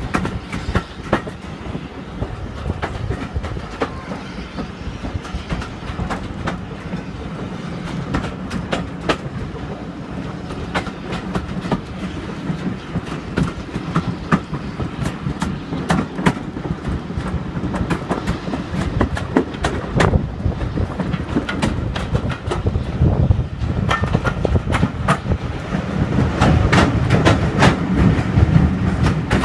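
Passenger carriage running along the track: a steady rumble with the wheels clicking over rail joints throughout. It gets louder near the end as the train passes close to a stone wall.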